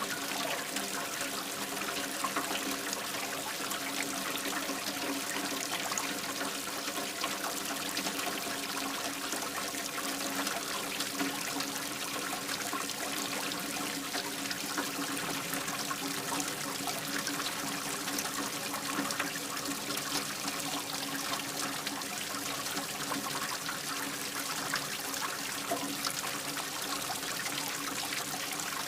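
Steady running water trickling and splashing, an even, unchanging water sound effect.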